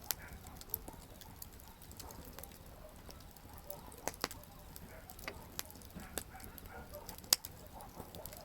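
Campfire wood crackling: irregular sharp pops and snaps over a low, steady rumble of flames, with the loudest pop about seven seconds in.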